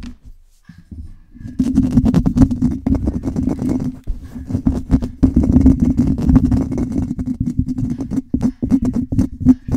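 A microphone being scratched directly, fast and aggressively, as rapid rough strokes. They stop briefly just after the start, resume about a second and a half in, and break into separate quick strokes near the end.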